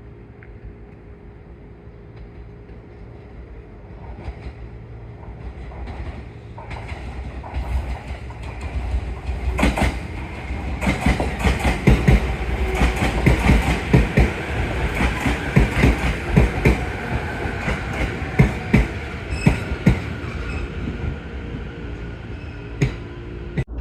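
Electric commuter train heard from inside the carriage, running along the line. The running noise grows louder over the first several seconds, then the wheels give a dense run of clicks over the rail joints, a clickety-clack, before easing near the end.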